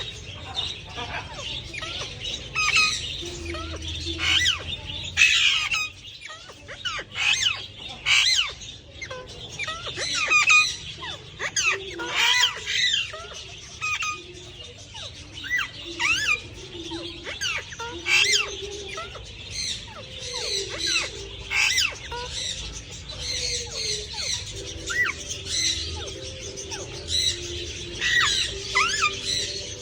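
Parrots chirping and squawking in a dense, continuous stream of short, overlapping calls.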